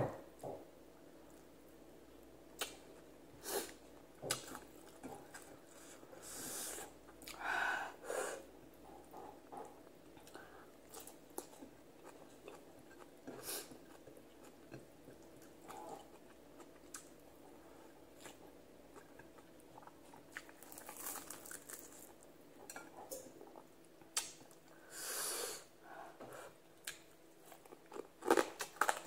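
Chewing and crunching of fried tilapia and rice eaten with the fingers, in short scattered bursts with a few light clicks.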